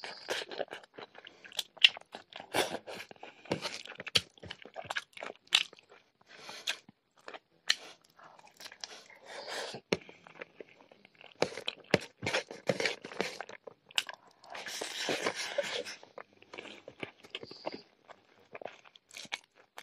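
A person chewing mouthfuls of rice and pork curry eaten by hand, close to the microphone: crunching with many short, sharp mouth clicks.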